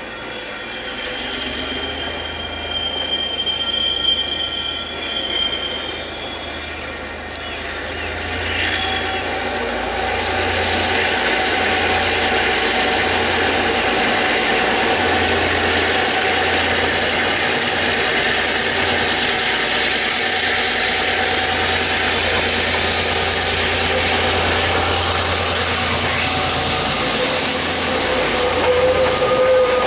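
KiwiRail DC class diesel-electric locomotive hauling a long container freight train past on a curve, its engine running under load, with a brief high wheel squeal a few seconds in. From about ten seconds on, the container wagons roll by with a steady rumble and clatter of wheels on rail.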